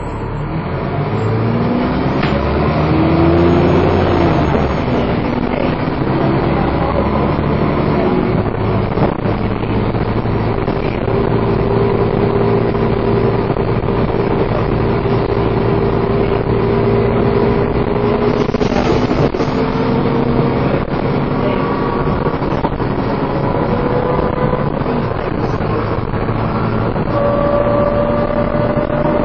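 Dennis Trident 2 double-decker bus being driven hard: the engine revs up with a rising whine in the first few seconds, its note stepping as gears change, then a long steady high whine, the 'hoover' sound, slowly climbing as the bus pulls at speed.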